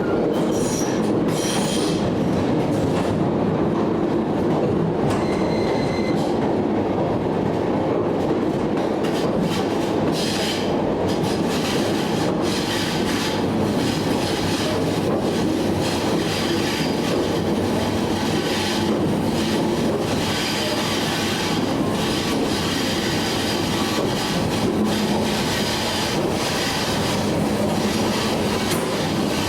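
A train rolling steadily along the track, its wheels clacking over rail joints, with brief high squeals from the wheels about a second in and again around five to six seconds in.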